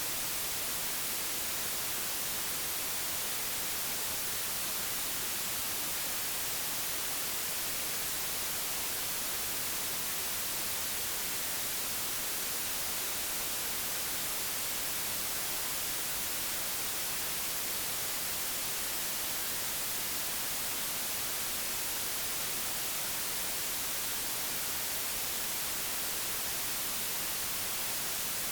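Digitally generated white noise: a steady, unchanging hiss, even across the whole range and brightest in the highs.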